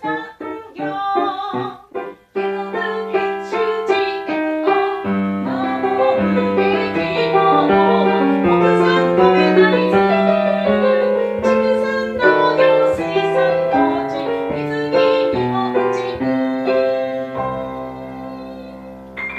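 Piano music: a melody of evenly paced notes, with a lower bass line coming in a couple of seconds in.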